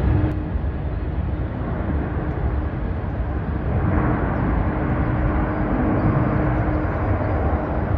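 Jet airliner engines rumbling steadily as a plane passes, the noise swelling a little about four seconds in.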